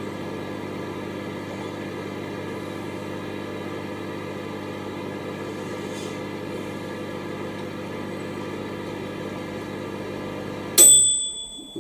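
Microwave oven running with a bag of compost inside, a steady hum. The hum stops abruptly near the end as the timed cycle finishes, followed by a high beep lasting about a second.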